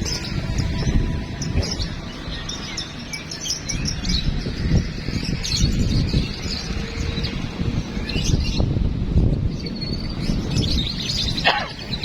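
Several caged competition songbirds singing and chirping at once, short calls and trills scattered throughout, over a steady low rumble.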